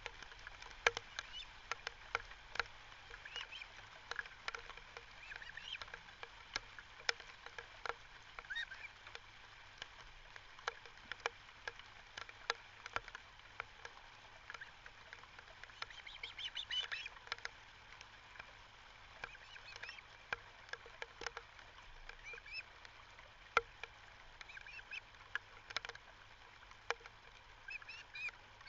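Birds calling at a lakeside nest: scattered short, high calls, busiest a little past halfway, over a run of frequent sharp clicks and taps.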